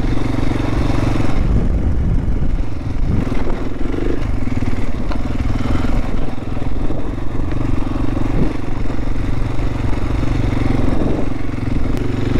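Adventure motorcycle's engine running steadily at low speed as the bike rolls slowly along.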